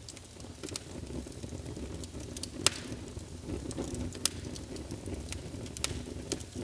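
Wood fire crackling in a fireplace: scattered sharp pops and crackles over a low steady rumble.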